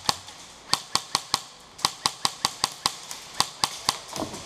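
Airsoft guns firing about fourteen sharp single shots, some in quick runs of several shots a fifth of a second apart.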